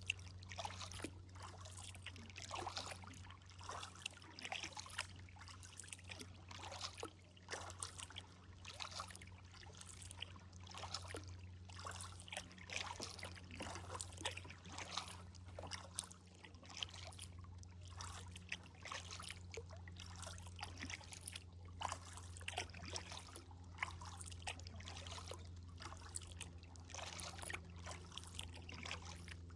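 Kayak paddle strokes: blades dipping and water trickling and dripping off them in an irregular rhythm, over a steady low hum.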